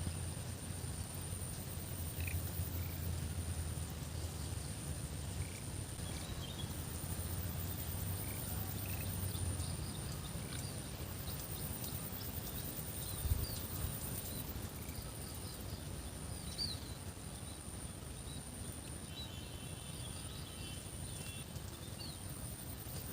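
Rural outdoor ambience: a steady high-pitched drone with scattered short chirps, under a low engine-like hum that fades out about ten seconds in. There is a single soft thump a little after halfway.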